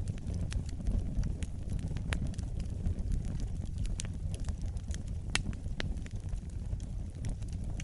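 Wood fire burning in a fireplace: a steady low rumble of the flames with irregular sharp crackles and pops, a few standing out louder, about two seconds in and near the middle.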